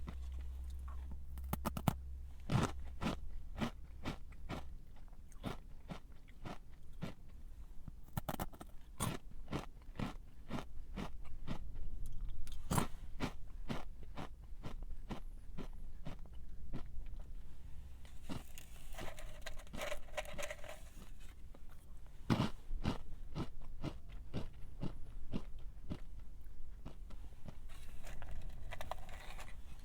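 Close-miked eating of a crunchy snack: an irregular run of sharp crunches as it is bitten and chewed.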